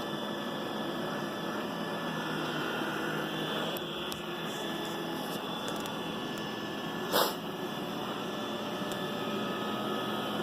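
iRobot Roomba 960 robot vacuum running on carpet: a steady motor hum with a few held tones. A brief loud thump about seven seconds in.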